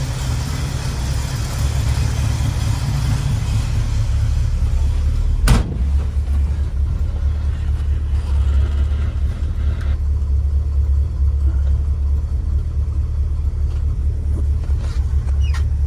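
Small-block 350 V8 with headers in a 1960 Chevrolet C10 pickup, running with a steady low rumble. A single sharp knock about five and a half seconds in.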